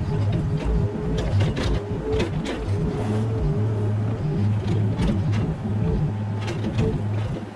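Mini excavator running through a job, with a steady hydraulic whine and scattered sharp knocks and clanks.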